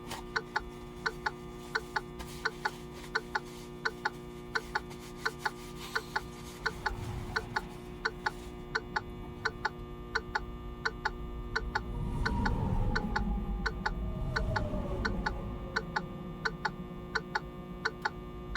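Regular sharp ticking, about two clicks a second, over a steady hum inside a truck cab. About twelve seconds in, a whine falls in pitch and fades over a few seconds.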